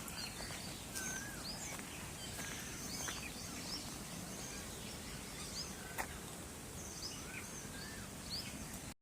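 Birds chirping and calling in woodland: many short, quick whistled notes that bend up and down, over a steady background hiss, with a sharp click or two. The sound cuts off abruptly just before the end.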